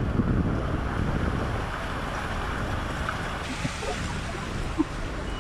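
Wind buffeting the microphone over a steady rush of noise, with a few faint clicks in the second half.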